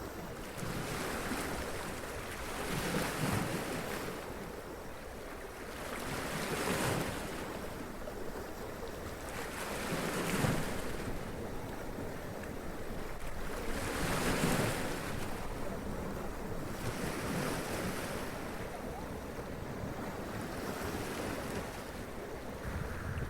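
Sea waves washing up onto rocks and draining back, surging in a slow rhythm about every three to four seconds, with a steady rush of surf and some wind.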